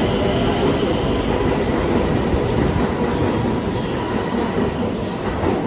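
Stockholm Metro train running on the rails: a loud, steady rumble of wheels and track with a faint high squeal over it.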